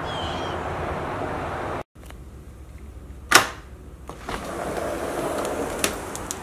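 A bird chirps briefly over steady outdoor background noise. Then the sound cuts out, and a sharp knock comes about three and a half seconds in, followed by a few lighter clicks.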